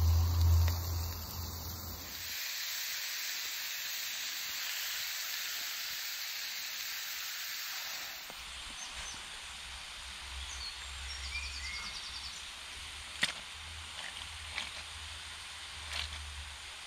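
Steady sizzling hiss of food frying on a camp stove. About eight seconds in it gives way to quieter woodland ambience with a few faint bird chirps and a handful of sharp clicks.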